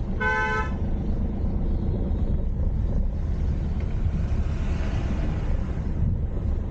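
Car driving, with a steady low rumble of engine and road noise. About a fifth of a second in, a vehicle horn sounds once, briefly, for about half a second.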